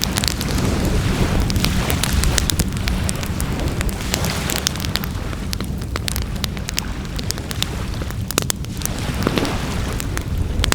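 Wood fire burning with frequent sharp crackles and pops, over a steady low rumble.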